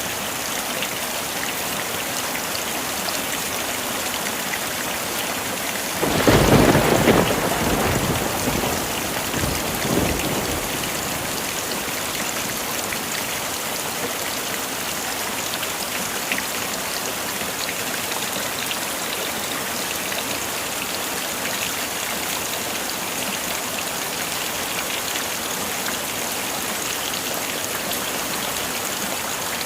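Heavy rain falling steadily, with a clap of thunder about six seconds in that rumbles off over a few seconds, and a smaller rumble near ten seconds.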